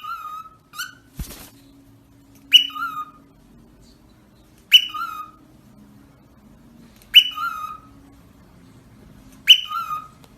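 A parrot giving a loud two-note whistle over and over, about once every two and a half seconds: a sharp upward swoop, then a lower held note. There is a single knock about a second in.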